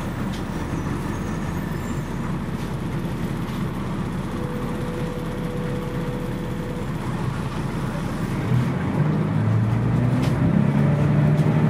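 Scania CN113CLL city bus with its Scania DSC 11.71 six-cylinder diesel, running steadily as heard on board. About eight and a half seconds in, the engine picks up and gets louder with a rising note as the bus accelerates.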